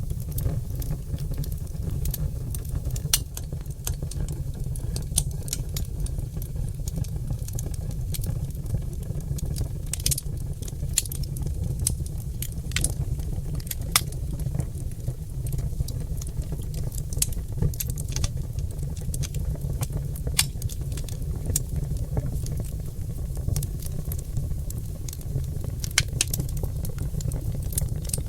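Oak log fire crackling, with many sharp pops and snaps, a few louder than the rest, over a steady low rumble of the flames.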